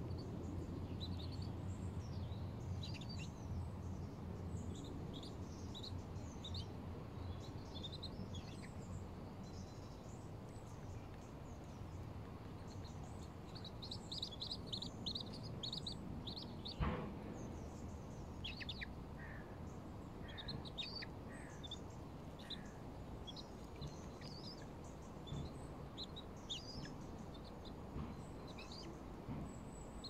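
Birds chirping and calling, many short high notes scattered throughout over a steady low background rumble. A single sharp knock sounds about seventeen seconds in.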